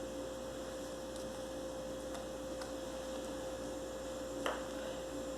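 Faint steady electrical hum, one constant tone, with a single light knock about four and a half seconds in.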